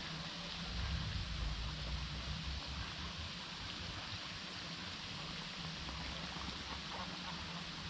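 Steady rushing, hiss-like outdoor nature ambience, with a low rumble that swells about a second in and fades out over the next couple of seconds.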